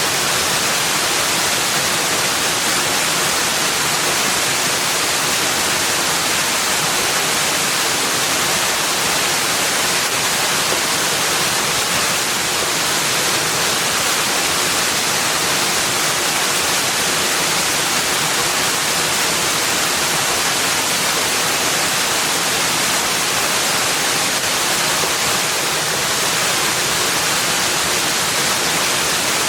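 Steady, even rushing noise of a nature ambience, strongest in the high range, with no calls, drips or other separate sounds standing out.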